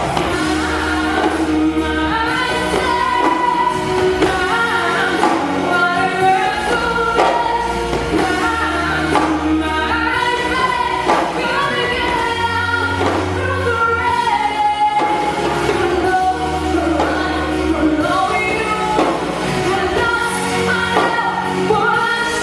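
Pop song: a female singer's voice over a backing track with sustained bass notes.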